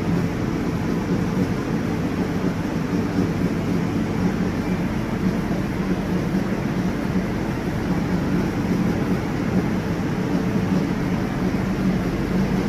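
Steady running noise of a WAG-9 electric locomotive, a continuous low hum over a wide even rush that holds level throughout.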